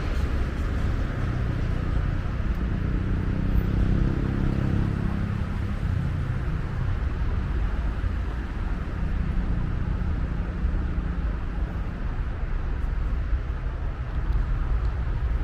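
Steady traffic noise from vehicles passing on a city motorway. About three seconds in, one vehicle's engine note stands out, then fades.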